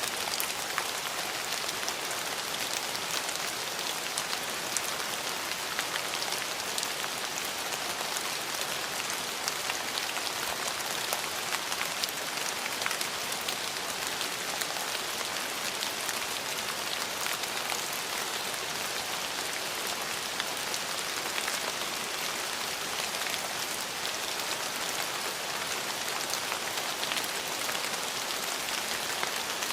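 Steady rain falling and pattering on surfaces, an even hiss dotted with many small drop ticks.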